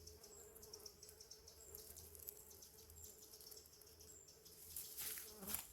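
Faint buzzing of wasps flying in and out of a ground nest, a thin steady hum, with a faint high chirp repeating about every three-quarters of a second.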